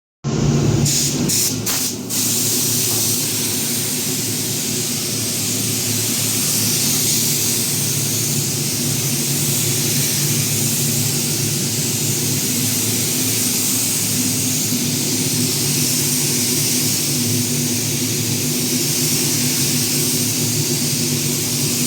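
Air-fed paint spray gun hissing steadily as it sprays car paint, over a steady machine hum, with a few sharp clicks in the first couple of seconds.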